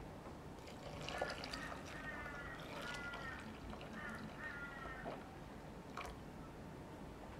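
A bird calling: a run of short, wavering calls over about four seconds, followed by a single sharp click.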